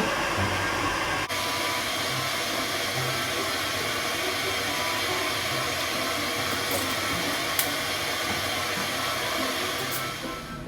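Iwatani Junior compact butane gas burner running at a steady hiss under a pot of water being brought to the boil; the hiss fades out near the end.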